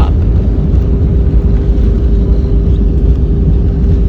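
Airbus A320 cabin noise during the landing rollout: a heavy, steady low rumble from the wheels on the runway and the airframe, with a steady engine tone from its IAE V2500 engines, as the aircraft slows down.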